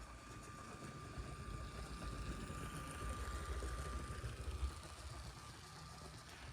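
Motorised LEGO train running along plastic LEGO track: a low rumble of wheels on the rails with a thin steady motor whine. It grows louder about three seconds in, then eases off as the train moves on.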